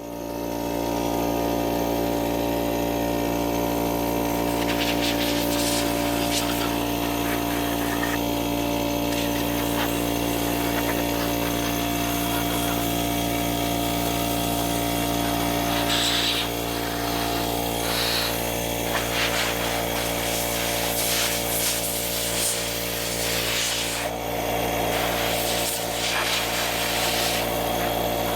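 Electric power sander switched on, its motor spinning up over about a second and then running steadily, with light rubbing against wood.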